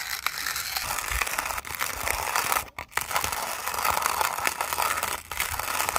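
Manual coffee grinder crunching arabica beans as its handle is cranked, a dense crackle of tiny cracks with a brief pause a little before the middle.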